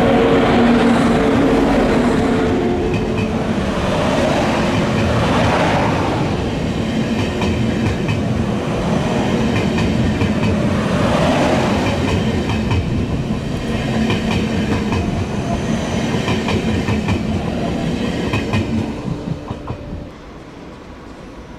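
DB ICE train running past the platform: a steady rumble of wheels on rails, with a rhythmic clatter of wheels over rail joints in the second half. It drops away sharply about twenty seconds in as the last car goes by.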